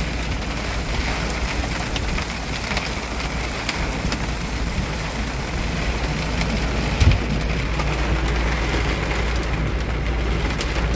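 Storm wind and rain beating on a truck, heard from inside the cab: a steady rush with a heavy low rumble of wind buffeting and scattered ticks of raindrops. A single dull thump comes about seven seconds in.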